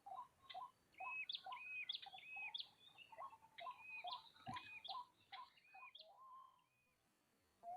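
Birds calling: a low call note repeated about twice a second, with higher whistled notes over it, and one sharp click about halfway through. The calling fades out near the end.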